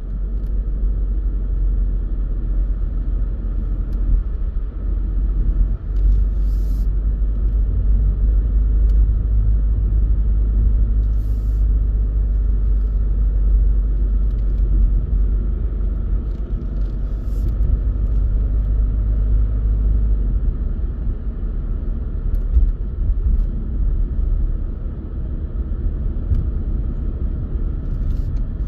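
Car driving steadily, with a continuous low rumble of engine and tyre noise and a few faint ticks.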